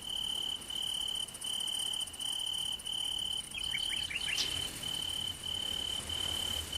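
Cricket chirping in even pulses, each a high thin trill about half a second long, repeating about one and a half times a second.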